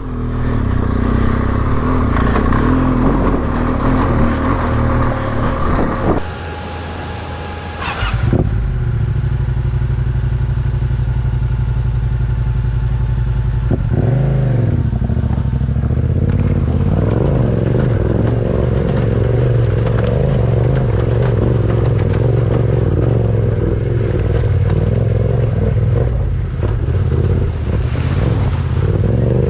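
Motorcycle engine running under load while riding. The sound drops away for about two seconds around six seconds in, then comes back as a steady, low-pitched engine note.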